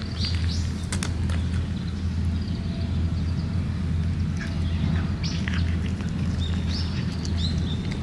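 Small birds chirping in short, high calls a few times over a steady low outdoor rumble. There are a few crisp clicks near the start as a cat crunches dry kibble.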